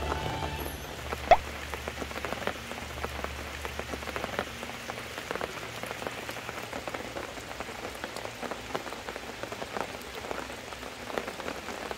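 Rain pattering, with many scattered drips and one louder, sharp drop about a second in.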